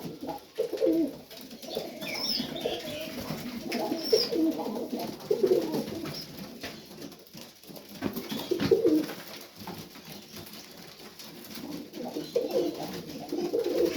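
Several domestic pigeons cooing in a loft, one low, wavering coo after another.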